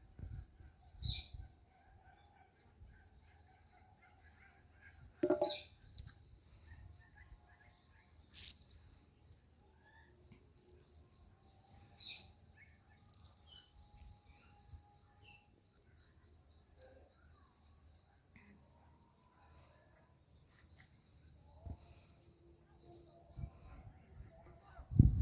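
Indian ringneck parrot giving a few short, sharp calls spread across the first half, over a steady high-pitched twittering in the background.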